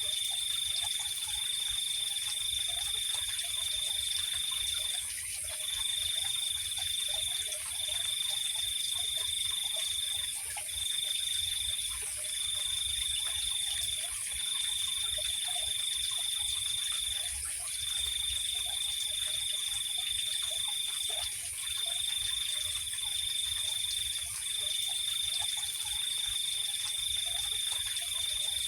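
A chorus of night insects: one high trill sounding in unbroken stretches of one to five seconds with short gaps, over a continuous, even higher insect drone. Faint scattered lower calls run underneath.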